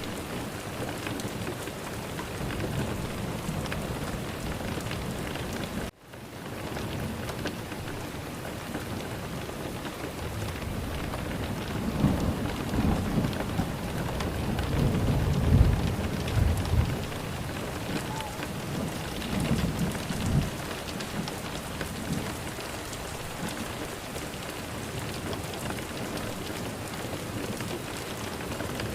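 Steady rain hiss with rolling thunder rumbling low from about twelve to twenty seconds in. The rain cuts out sharply for a moment about six seconds in and swells back.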